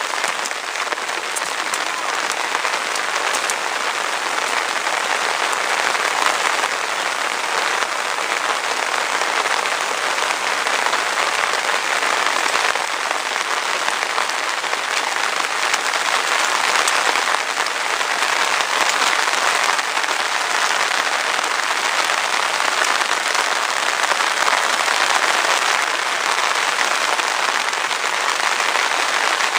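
Steady, dense rain falling, an even patter of countless drops with no let-up.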